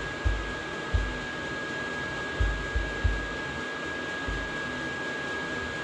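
Several dull, low knocks and bumps, from a 1-2-3 block and dial indicator being handled and set against a metal lathe, over a steady whirring hiss with a thin high whine.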